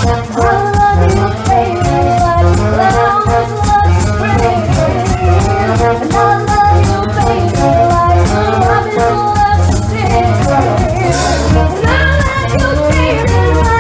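A live party band playing upbeat funky music with a steady beat and a bass line.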